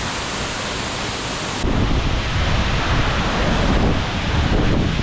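Waterfall rushing steadily. About a second and a half in, it jumps louder with a heavy low rumble as wind and spray buffet the microphone close to the falling water.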